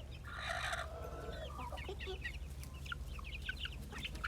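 Chickens calling: a harsh squawk-like call in the first second, then many short, high chirps scattered through the rest, over a steady low hum.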